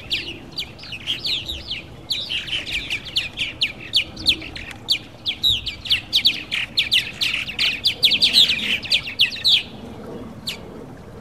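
Purple martins chirping in quick, dense runs of notes, breaking off briefly near the end.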